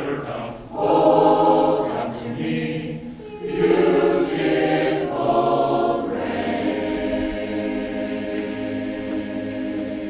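Community choir singing in several parts, phrases broken by short pauses, then a long chord held from about six seconds in.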